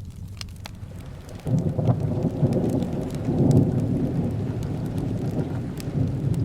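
Rain falling with scattered sharp ticks, then a roll of thunder that breaks in suddenly about one and a half seconds in as a loud, low, rolling rumble and keeps going.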